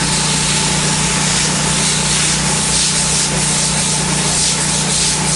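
Pressure washer running steadily, its black low-pressure nozzle spraying water onto ceramic tile: a constant hiss of spray over a steady hum.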